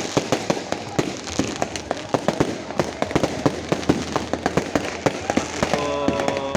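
A New Year fireworks display: a dense, continuous barrage of sharp bangs and crackles, several reports a second, with a steady tone rising out of it near the end.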